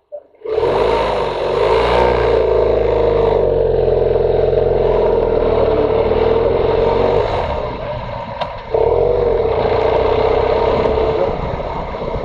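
Motorcycle engine running under throttle while riding, with wind noise, starting abruptly about half a second in. It drops off briefly about eight seconds in, then picks up again.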